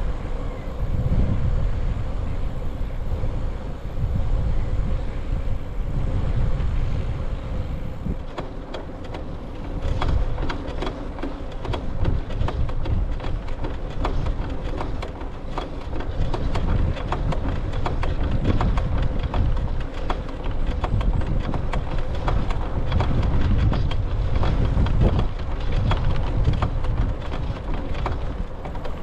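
Wind buffeting the microphone of a camera riding on a moving bicycle: a low rumble that swells and drops, over a faint steady hum. Frequent small clicks and rattles run through it from about eight seconds in.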